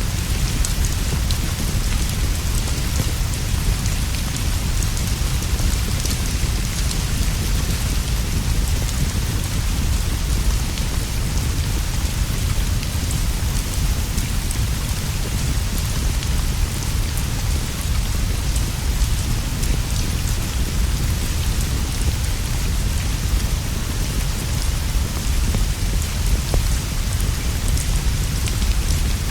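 Steady, unbroken rainfall over a constant low rumble, with scattered small ticks through it.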